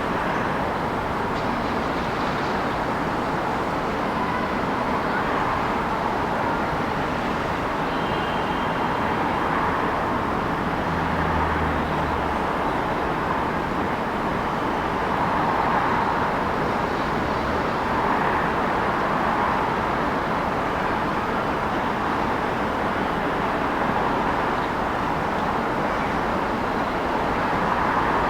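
Steady city street traffic: a continuous wash of car and tyre noise, swelling now and then as vehicles pass close by.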